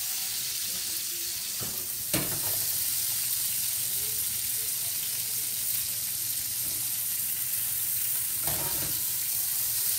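Chicken thighs and sausages sizzling in oil in a stainless steel skillet, a steady frying hiss. A sharp click comes about two seconds in and another knock near the end.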